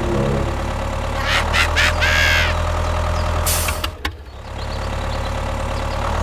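A small engine running steadily, with short squeaks in the first half and a brief high hiss about three and a half seconds in. The sound drops for a moment just after the hiss, then the engine carries on.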